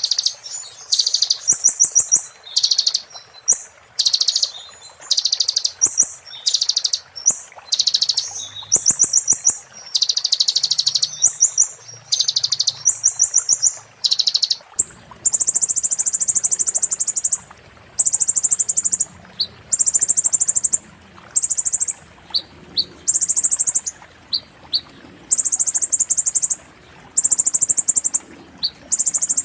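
Konin songbird singing a fast, shrill 'muntah beling' song. First come short bursts of rapid high trills. From about halfway it switches to buzzy, rattling high phrases about a second long, repeated steadily, with short sharp chips between.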